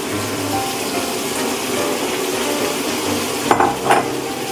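Pasta and tomato sauce sizzling steadily in a frying pan over the flame, with two sharp knocks about three and a half seconds in.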